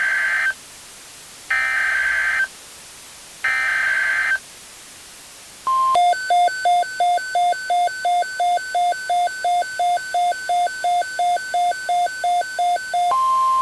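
Emergency Alert System SAME header: three roughly one-second bursts of high warbling digital data a second apart, then a short beep and a rapidly pulsing two-pitch alert tone, about three and a half pulses a second, for some seven seconds, ending in a steady tone. These signal the start of a hurricane watch alert.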